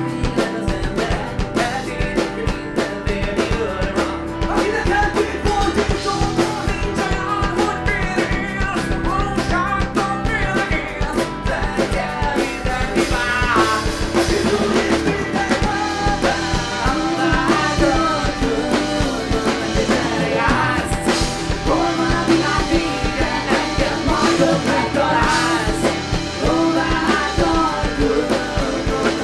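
A rock band playing a song: a singer's vocal over a drum kit and band.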